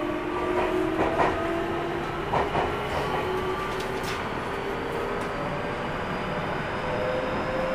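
Interior running sound of a Keio 1000 series train with a Toyo GTO-VVVF inverter: the electric whine of the inverter and traction motors rising slowly in pitch over a steady rolling rumble. The wheels click twice in quick pairs over rail joints.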